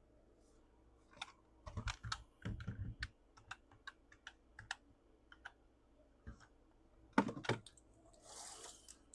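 Irregular small clicks and taps of hands handling things at a desk, with a few louder knocks and a brief rustle near the end.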